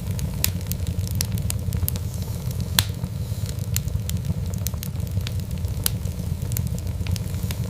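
Wood fire burning: a steady low rumble with frequent sharp pops and crackles, one louder pop a little under three seconds in.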